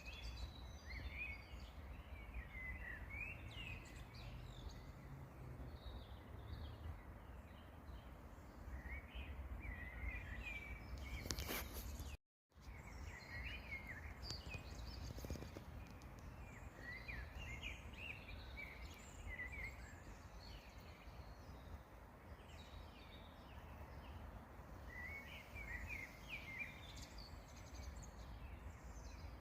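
Several songbirds chirping and singing in short repeated phrases over a steady low wind rumble on the microphone. A brief rustle is followed by a split-second dropout of all sound about twelve seconds in.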